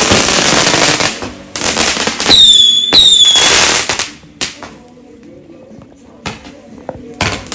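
Fireworks going off: loud bursts of crackling and bangs, with two short whistles that drop in pitch a little over two seconds in, then a quieter spell with a few scattered pops before another burst near the end.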